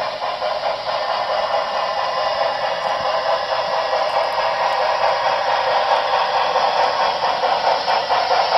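Broadway Limited Imports HO-scale 2-8-2 steam locomotive's onboard sound system chuffing steadily through its small speaker, with the clatter of the freight train's wheels on the track; the sound gradually grows louder.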